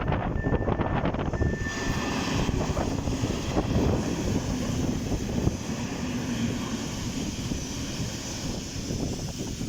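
EN57 electric multiple unit passing over the level crossing: a loud, continuous rumble and rush of wheels and train. The crossing's electronic warning signal, a high steady tone broken by short gaps, cuts off about one and a half seconds in.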